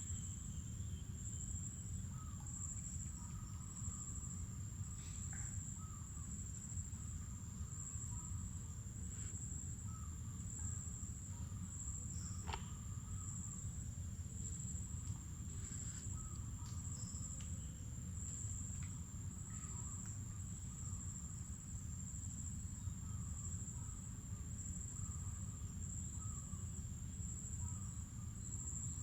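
Insects keep up a steady, high-pitched, pulsing trill in a mangrove forest. Scattered short bird chirps come and go over a low, steady rumble.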